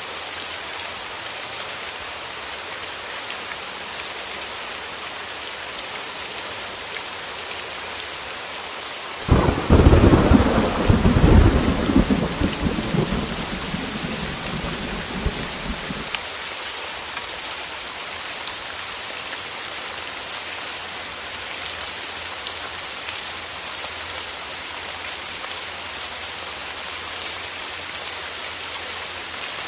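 Heavy rain on a window, a steady hiss. About nine seconds in, a thunderclap breaks in suddenly and rumbles loudly for about seven seconds before the rain alone returns.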